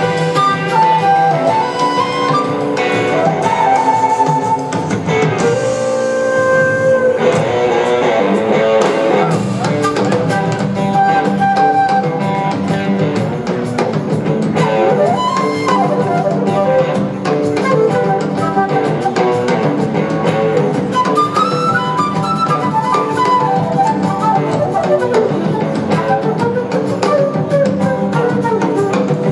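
Live band playing an instrumental blues-rock jam: a lead guitar line with gliding notes over drums, bass and keyboards.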